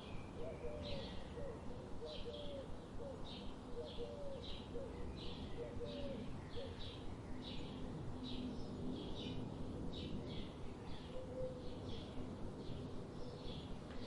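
Birds chirping: a steady run of short high chirps, about two a second, with lower short repeated calls during the first few seconds, over a steady background hiss.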